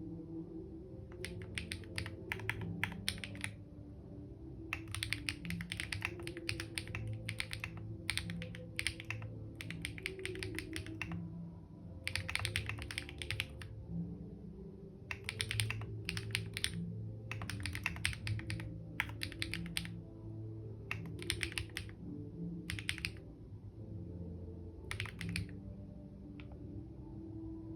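Computer keyboard typing in short bursts of rapid key clicks, with pauses of a second or two between bursts, over soft ambient background music.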